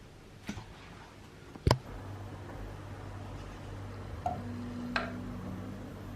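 A few light clicks, then one sharp loud click about two seconds in, after which a low steady machine hum starts and runs on. Later there is another click with a brief higher hum and a final tap.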